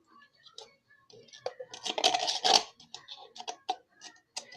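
Hands handling objects at a table: scattered clicks and scratching, rustling noise, loudest in a burst about two seconds in.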